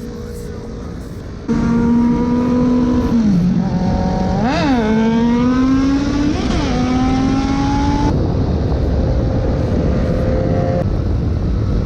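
Motorcycle engine running on the road. It gets suddenly louder about a second and a half in, then revs up sharply twice in quick blips, a couple of seconds apart, before settling to a steady pitch.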